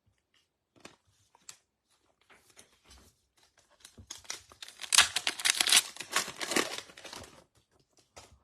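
Wrapper of a 2022 Topps Gypsy Queen baseball card pack being torn open and crinkled. There are a few light rustles at first, then a dense, loud crackling from about halfway through that stops near the end.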